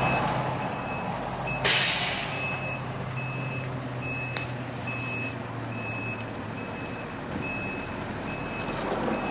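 Truck back-up alarm beeping steadily, about three beeps every two seconds, over a running truck engine. A short loud hiss of released air about two seconds in.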